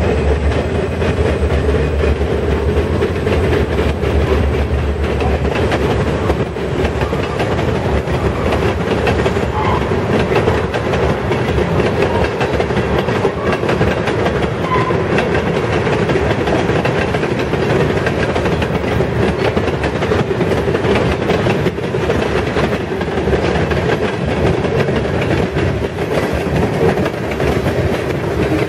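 Freight train rolling past close by. A diesel locomotive's low engine rumble fades over the first few seconds. Then a long string of tank cars and covered hoppers keeps up a steady roar of steel wheels on rail, with constant clicking over the rail joints.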